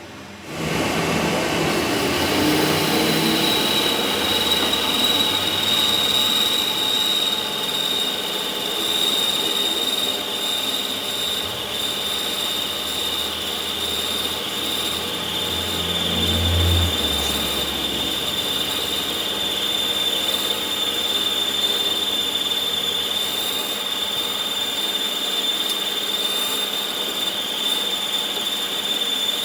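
A machine tool or power tool running steadily with a high-pitched whine, starting about half a second in.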